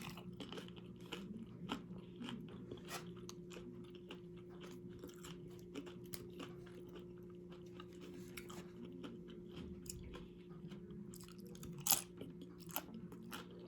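A person chewing and crunching crisp food close to the microphone, with many small crunches throughout and a louder crunch near the end.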